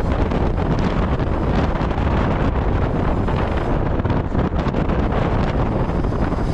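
Very strong wind buffeting the microphone: a steady, heavy rumble of wind noise with small gusty flutters and no let-up.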